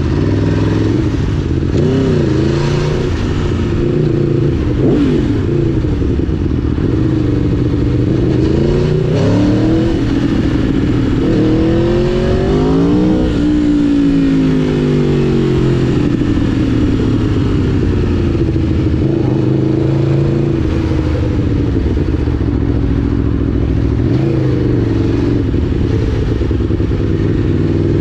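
Aprilia Tuono V4 1000's V4 engine pulling a motorcycle through traffic, revs rising and falling again and again as the rider accelerates and backs off, with one long climb peaking about halfway through. A steady rush of wind and road noise runs underneath.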